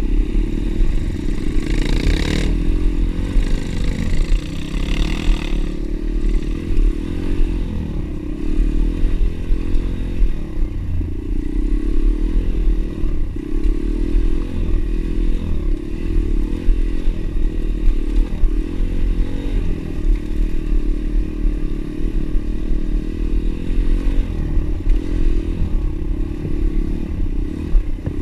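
Pit bike engine running while riding, loud and continuous, with two short rushing noises about two and five seconds in.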